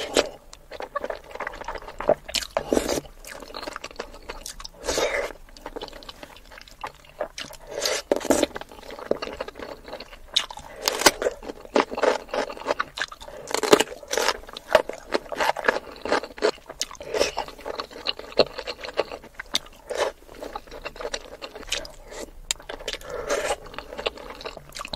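Close-miked eating sounds: biting and wet chewing of sauce-coated sausage, crisp cucumber and soft-boiled egg, coming in irregular bursts of crunching and smacking with short pauses.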